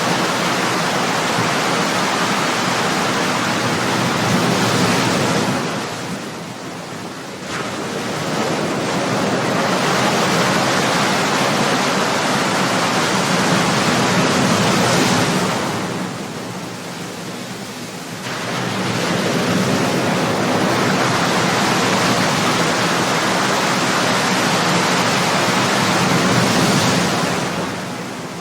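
Ocean waves breaking in a steady wash of surf that swells and sinks about every ten seconds, three surges with short lulls between them.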